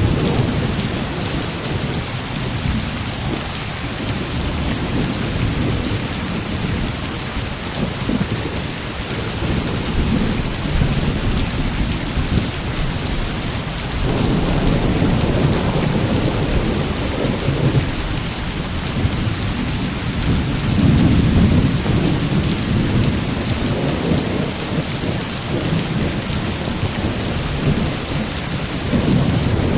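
Heavy rain falling steadily, with low rumbles of thunder swelling up through it about halfway through and again a few seconds later.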